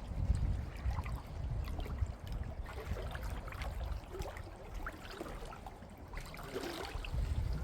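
Seawater sloshing and gurgling in the shallows, with a fluctuating low rumble of wind on the microphone.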